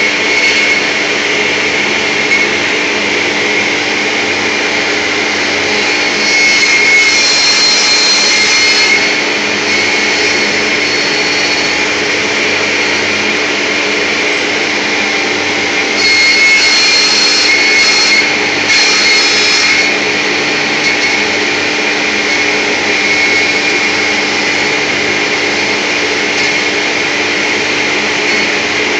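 Woodturning lathe running steadily with a constant hum and whine, with two stretches of louder hissing as the cutter works beech wood, one about a third of the way in and one a little past halfway.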